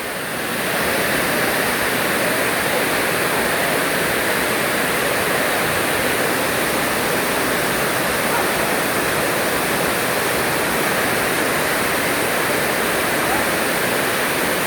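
Heavy tropical rain falling hard, a loud, steady downpour that swells slightly about a second in and then holds level.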